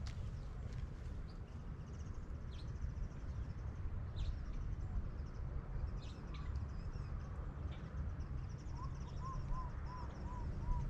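Birds calling over a steady low rumble of wind on the microphone. Near the end a bird gives a run of about six short, evenly spaced notes.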